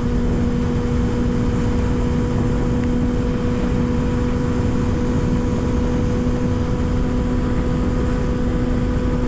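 Kawasaki ZX-6R 636's inline-four engine running at a steady speed while riding, its note holding one even pitch. Heavy wind rumble on the helmet microphone lies under it.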